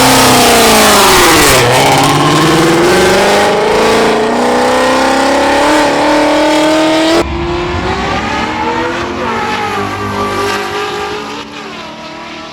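Car engine at wide-open throttle in a roll race, its pitch climbing with a dip at each upshift. About seven seconds in the sound drops abruptly in level and the engine keeps pulling more quietly.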